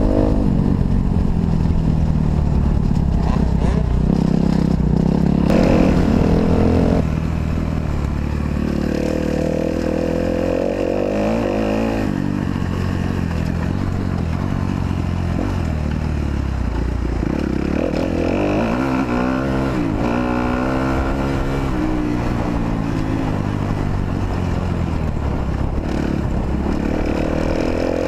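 Kawasaki KX250F's single-cylinder four-stroke engine revving hard and easing off through a motocross lap, its pitch rising and falling over and over as the rider works the throttle and gears. The first several seconds are the loudest.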